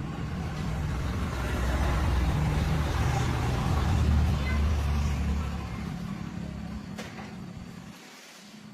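A large engine running with a low rumble that swells louder and then fades away, the deepest part of the rumble dropping out about eight seconds in.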